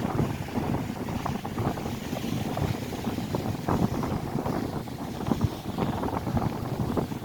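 Gusty wind buffeting the microphone in uneven surges, over the wash of lake waves breaking on the shore.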